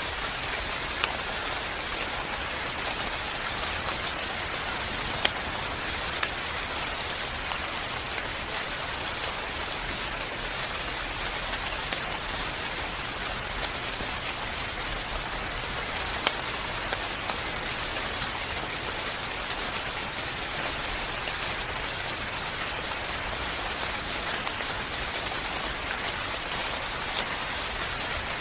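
Steady rain falling, a dense even hiss with scattered louder drops ticking now and then.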